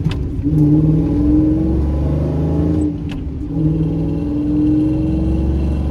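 Pickup truck's V8 accelerating through the gears of a TR6060 six-speed manual: engine revs climb steadily in each gear, with two short breaks for upshifts, one at the start and one about three seconds in.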